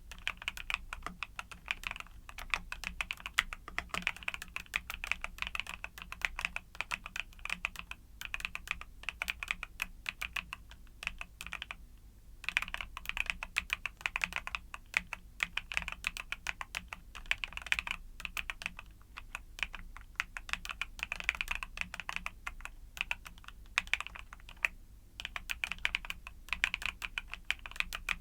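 Mechanical keyboard with YUNZII Cocoa Cream switches being typed on steadily: a fast stream of key clacks, broken by a few short pauses.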